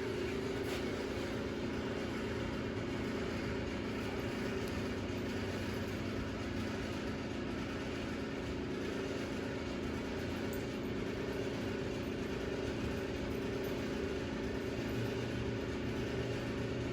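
A steady machine hum with a few held low tones, unchanging throughout.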